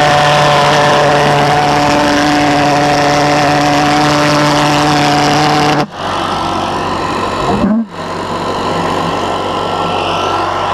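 Reed-valve pulse jet engine running loud and steady at a constant pitch. The sound breaks off abruptly about six seconds in and again about two seconds later, then carries on at a lower pitch.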